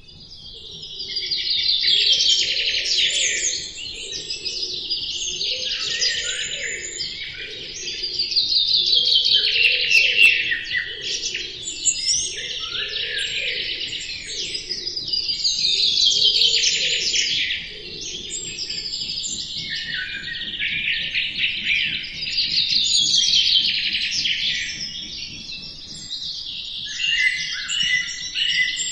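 A songbird singing: phrases of rapid chirping trills that fall in pitch, each a few seconds long, repeated about every six to seven seconds.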